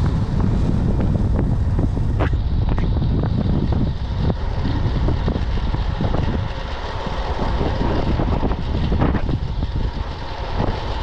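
Typhoon wind buffeting the microphone: loud, constant low rumbling noise with irregular gusts.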